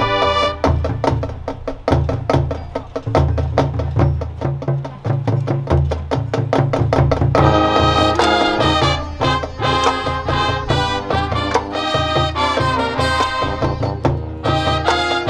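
High school marching band playing: brass and percussion. Quick drum strikes drive the first half, and about halfway through the full brass section comes in with loud, bright sustained chords.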